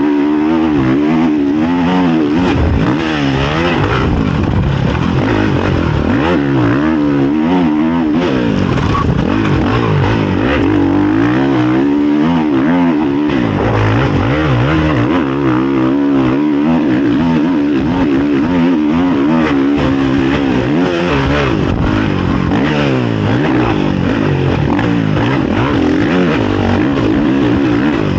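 Honda CRF450 motocross bike's single-cylinder four-stroke engine, heard close up onboard, revving up and dropping back over and over as it is ridden hard through the gears.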